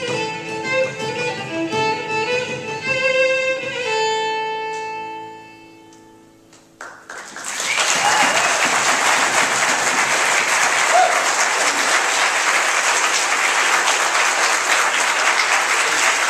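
Fiddle and string ensemble playing the closing bars, ending on a held chord that fades out about six seconds in. After a short pause, an audience bursts into steady applause that keeps going.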